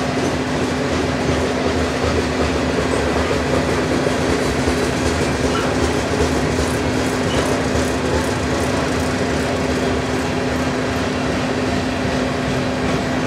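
Covered hopper cars of a freight train rolling past steadily: steel wheels on rail make a continuous clatter with a steady hum underneath.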